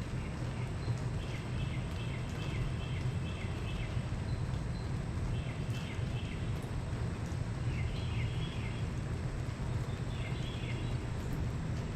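Outdoor night ambience: a steady low rumble, over which small animals give groups of short, high chirping calls every second or two.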